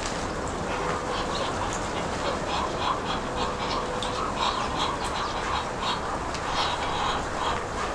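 Birds calling: a steady chorus of short, repeated calls, several a second, from a group of birds.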